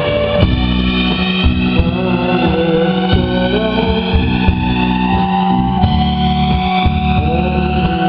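Live rock band playing an instrumental passage: electric guitar with bending notes over bass, drums and sustained synthesizer tones.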